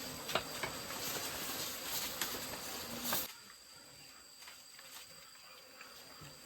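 Rustling and crackling of leafy greens (water spinach and sweet-potato leaves) as piglets feed and chew, dying away about three seconds in. A steady high insect drone runs underneath.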